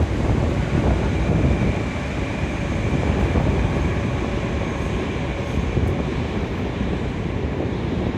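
Moscow Metro 81-717.5M 'Nomernoy' train heard from inside a moving car: steady, loud rumble of wheels on the rails, with a faint high whine about two seconds in.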